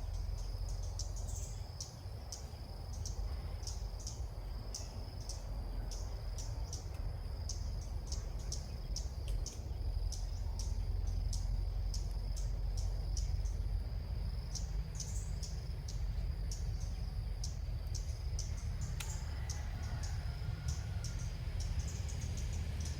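Small bird chirping in short high notes, about two to three a second, over a steady high insect-like drone and a low rumble.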